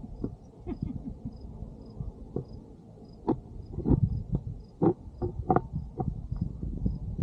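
Insect, likely cricket, chirping at an even pace, about two short high chirps a second. Irregular low thumps and sharp clicks are louder than the chirping.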